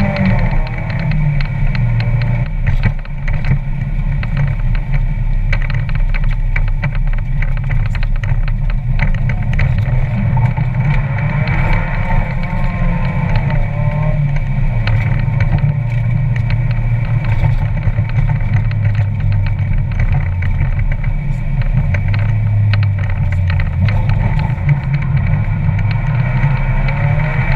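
Mazda Miata's 1.8-litre four-cylinder with an aftermarket header and cat-back exhaust, heard in the car, revving up and down over and over as it is driven hard. A loose camera mount clanks throughout.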